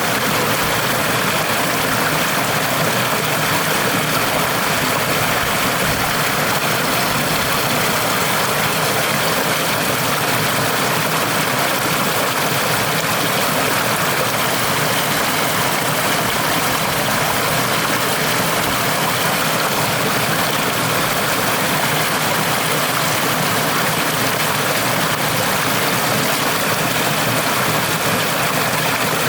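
A woodland stream flowing: a steady, even rush of water that holds the same level throughout.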